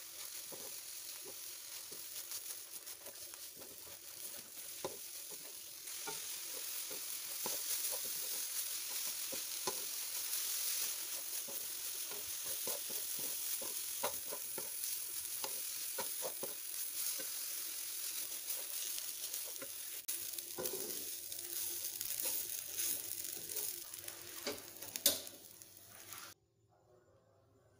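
Grated coconut and urap spice paste frying in a nonstick pan with a steady sizzle. A wooden spatula stirs, scrapes and taps against the pan throughout. The sizzle grows louder about six seconds in, and a sharp knock comes just before the sound cuts off abruptly near the end.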